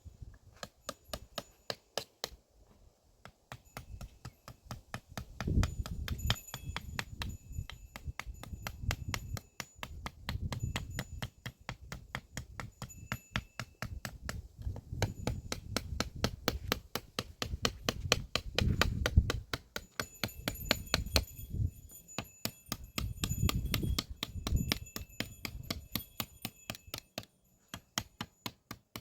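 Rapid, even knocking, about four sharp strikes a second, over a low rumble that swells and fades several times.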